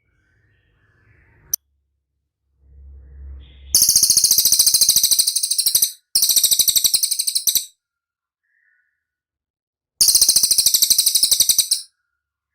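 Cililin bird calling: three bouts of rapid, very high-pitched repeated chirps, each lasting about one and a half to two seconds, the first starting nearly four seconds in.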